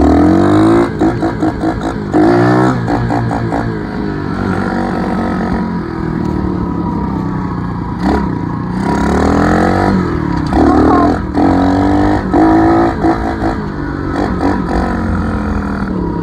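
Dirt bike engine under way, its pitch climbing and dropping again and again as the throttle is opened and closed.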